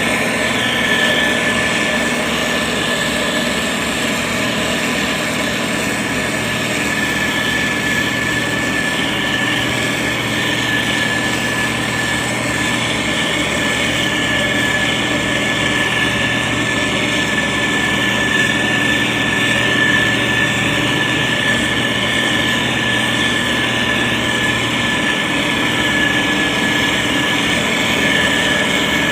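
SANY STG190C-8S motor grader's diesel engine running steadily while spreading gravel, with a steady high whine over the engine noise.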